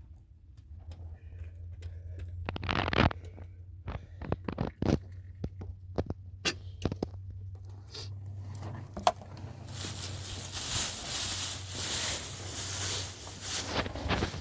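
Scattered scrapes and sharp knocks of things being handled, then a dense crackling, rustling hiss from about ten seconds in.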